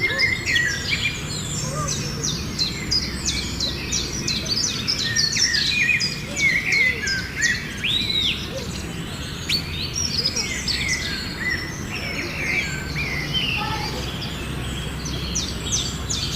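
A chorus of several songbirds singing and calling at once: a dense stream of quick chirps, trills and short whistles, over a steady low background rumble.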